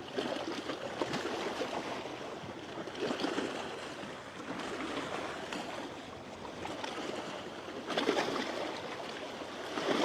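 Saltwater washing against the shore, a steady wash that swells a little a few times.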